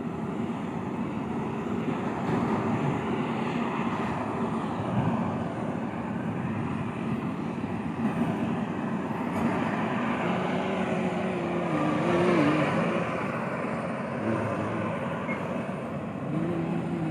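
Steady vehicle engine noise, with a wavering tone that comes and goes briefly twice in the second half.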